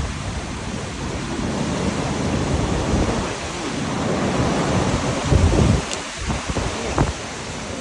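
Strong wind gusts buffeting the microphone: a low rumbling rush that swells and eases, loudest about five and a half seconds in.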